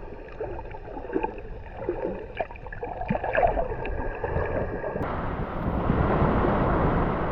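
Muffled water sloshing and gurgling with small scattered clicks, the sound of snorkeling. About five seconds in it changes abruptly to a steady rushing noise of wind or surf.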